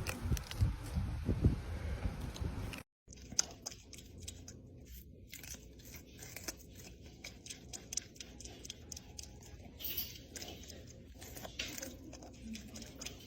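Close-up chewing: an animal eating crunchy food, a dense run of small, crisp, irregular crunches and clicks. A louder, low rumbling noise comes first, then a short break.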